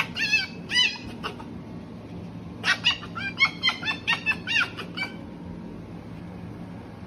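A small animal's high, short chirping squeaks: two at the start, then a quick run of about a dozen from roughly the third to the fifth second.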